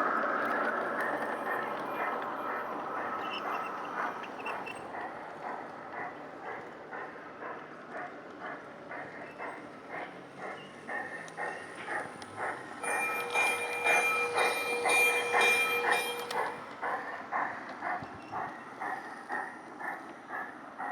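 G-scale garden railway train running on outdoor track, its wheels clicking over the rail joints about twice a second. About halfway through, a steady high tone sounds for about three seconds while the clicking is at its loudest.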